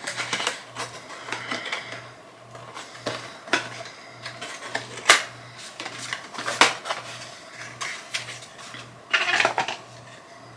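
A small product box being opened by hand: scattered clicks and scrapes of the packaging, with two sharper snaps in the middle and a short rustle near the end.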